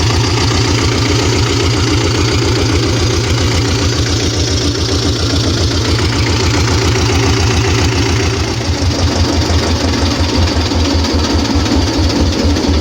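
Güldner AZK 8K tractor's diesel engine running with a rapid, even exhaust beat through its new, unusual exhaust pipe; the beat turns more distinct a little past halfway.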